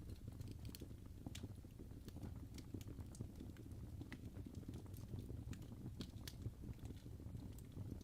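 Fire crackling: irregular small pops and snaps over a low, steady rumble.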